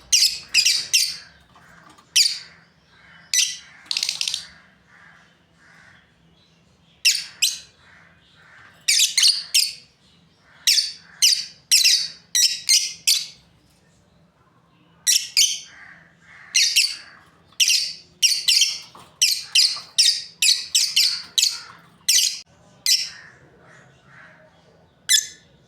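Lovebirds chirping: short, shrill calls in quick runs of two to six, with pauses of a second or two between the runs.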